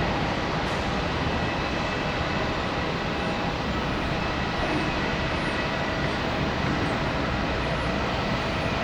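Boeing 787 twin jet engines running at takeoff thrust: a loud, steady roar with a faint high whine in it.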